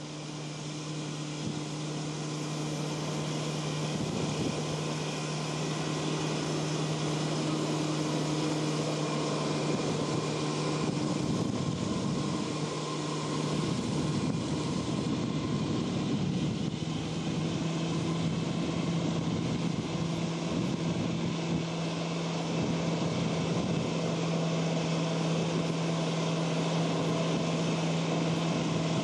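Motorboat engine towing the parasail, running steadily with a constant hum; it gets a little louder over the first few seconds, and its pitch steps up slightly about halfway through as the throttle opens.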